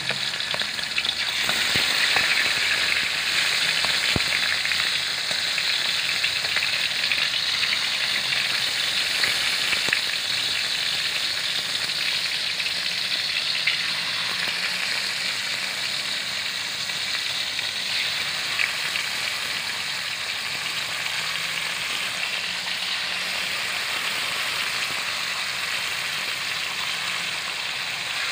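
Pork liver frying in hot cooking oil in a wok: a steady sizzle with small pops here and there, a little louder in the first several seconds and easing slightly after.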